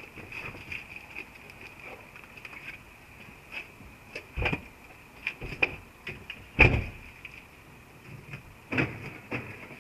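Irregular knocks and clatters over a steady high hum, the loudest about two-thirds of the way through: the rattle from the exhaust of a VW Golf IV 1.4 16v.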